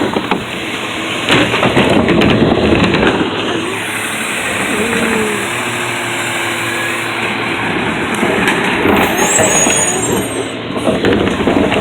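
Garbage truck running and working: steady engine noise with knocks, a held tone in the middle and brief high squeals about nine seconds in.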